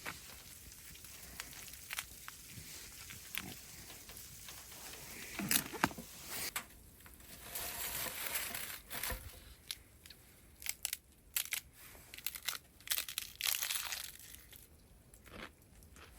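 Hands working with food and wrappers: irregular crinkling, tearing and crunching, with scattered clicks and knocks, busiest through the middle.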